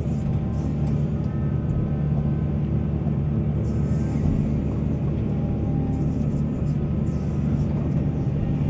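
Heavy mining excavator's diesel engine running steadily under work, a deep even drone with a faint high whine over it.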